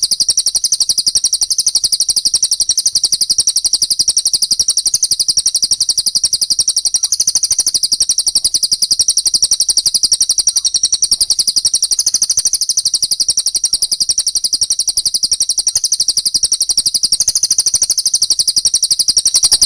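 Small songbird's continuous, very rapid high-pitched trill of repeated notes, steady and unbroken.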